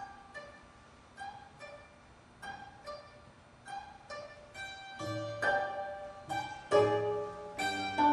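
Gayageum ensemble (25-string and 18-string Korean zithers) playing sparse, evenly spaced plucked notes that ring and fade. About five seconds in, deeper notes join and the playing grows louder and fuller.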